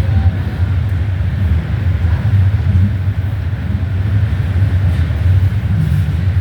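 Steady low rumble and wheel-on-rail noise of a Toronto Rocket subway train running at speed between stations, heard from inside the car.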